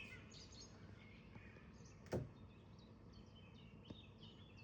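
Very quiet outdoor air with faint bird chirps, and one sharp click about two seconds in.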